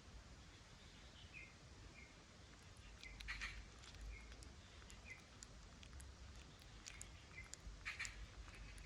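Faint short high-pitched chirps, about one a second, with a louder rustling scuffle about three seconds in and another near the end.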